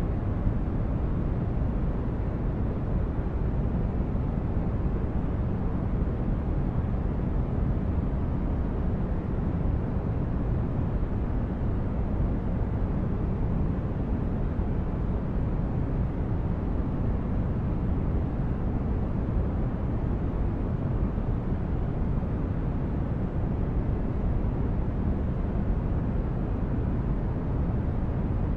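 Steady deep rumbling noise from a relaxation noise track, heavy in the bass and soft in the highs, with no change in level or pitch.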